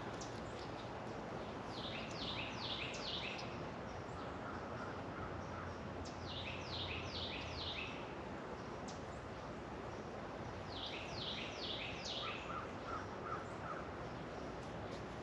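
A songbird singing three phrases, each a quick run of about five high, falling notes, over a steady background hiss.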